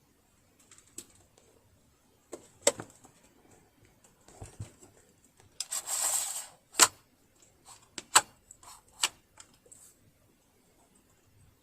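Scattered sharp clicks and knocks, with a short rustling scrape about six seconds in: a household sewing machine and tools being handled as disassembly begins.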